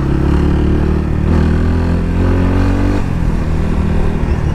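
Yamaha FZ25 motorcycle's single-cylinder engine under way, its pitch rising for a couple of seconds as it accelerates, then dropping suddenly about three seconds in, as at a gear change. Wind rushes over the microphone throughout.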